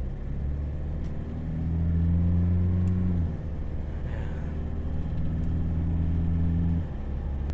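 Toyota 1GD-FTV 2.8-litre four-cylinder turbodiesel driving on the road: a steady low drone that swells under throttle twice, about a second and a half in and again near the middle, easing off each time. It runs smooth, with no timing-chain rattle on its new chain.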